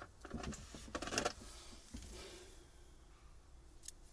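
Light clicking and rustling of old boat wiring and plastic connectors being handled: a cluster of short clicks in the first second or so, then one sharp click near the end.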